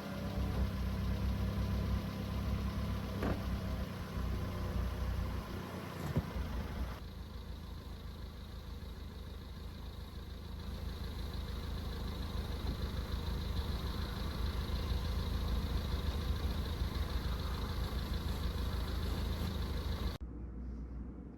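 Subaru Sambar's rear-mounted 660 cc four-cylinder engine idling steadily. Two sharp clicks come in the first few seconds, the sound changes character about seven seconds in, and it cuts off abruptly near the end.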